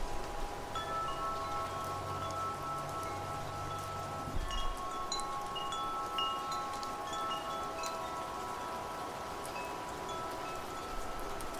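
Wind chimes ringing, many metal tones sounding and overlapping as the wind moves them, over a steady hiss of rain and wind. A low rumble of wind sits under them for the first four seconds or so.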